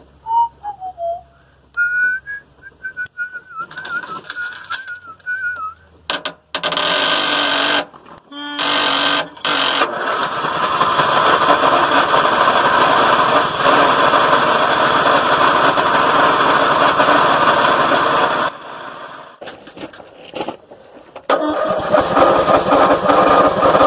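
A few seconds of wavering whistling, then the old Southern States lawn tractor's small engine running loud and steady for several seconds. It drops away briefly, then runs again with an even firing rhythm after a long-unused, three-years-idle start.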